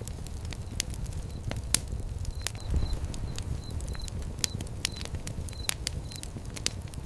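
Wood fire crackling and popping with irregular sharp snaps over a low steady rumble of the flames, with one heavier soft thump a little under three seconds in.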